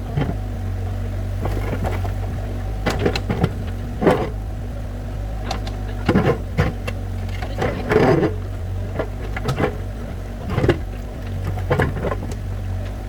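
Excavator's diesel engine running steadily while it digs a track, with irregular clanks and scrapes from the bucket working the ground, about ten of them, the loudest about eight seconds in.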